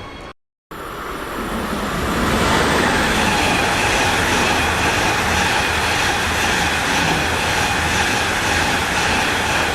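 A train running past close by on the station tracks: the rush of wheels on rails builds over about two seconds and then holds loud and steady. A brief cut to silence comes about half a second in.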